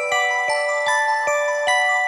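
Background music: a bell-like mallet instrument plays a steady run of single struck notes, about two or three a second, each note ringing on under the next.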